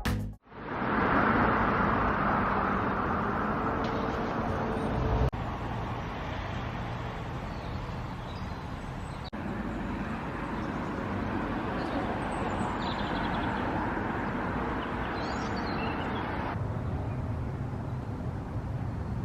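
Outdoor background noise with a steady hum of road traffic, in several short clips joined by abrupt cuts.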